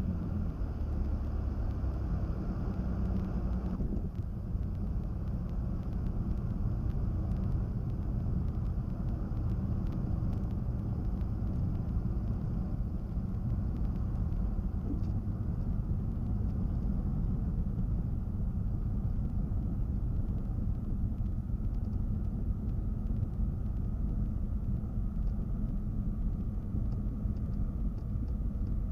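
Twin engines of a Cessna 310Q running steadily, heard from inside the cabin as a low droning hum, during the landing rollout and taxi off the runway. The sound drops noticeably about four seconds in.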